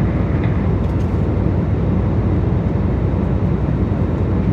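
Steady roar inside an airliner's cabin in flight: jet engines and airflow, heavy and low.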